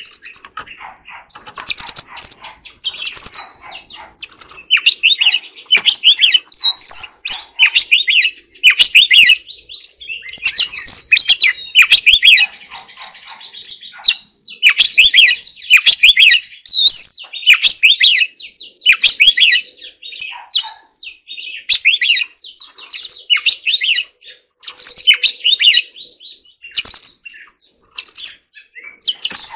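Oriental magpie-robin singing a long, varied song of rapid whistled phrases with short breaks between them.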